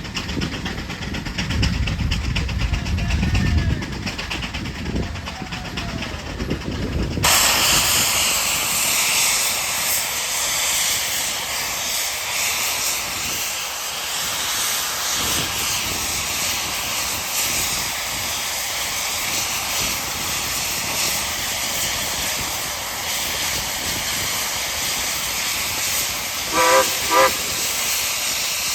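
Rumely 40-140 HP steam traction engine blowing off steam. A low rumble gives way, about seven seconds in, to a sudden loud, steady hiss of escaping steam. Near the end come two short whistle toots.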